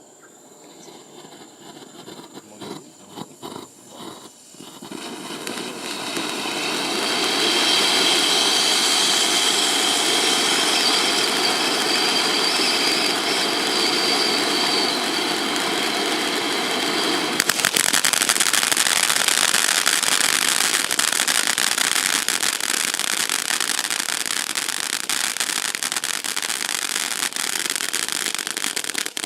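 Cube Fireworks 'Frosty' firework burning. A few faint crackles lead into a loud, steady rushing hiss that builds over several seconds, with a few thin whistling tones in it. About two-thirds of the way through it switches suddenly to dense, continuous crackling.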